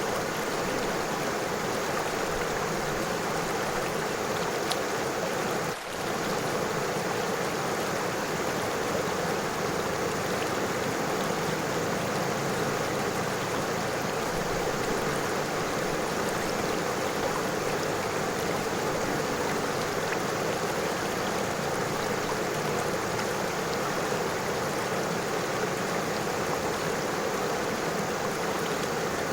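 A river flowing over stones: a steady, even rush of water, with a brief dip in level about six seconds in.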